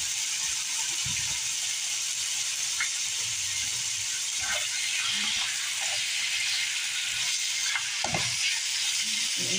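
Chicken breast and sliced onion sizzling in butter in a frying pan: a steady frying hiss. A utensil stirring the pieces gives a few dull knocks against the pan, about a second in and again near the end.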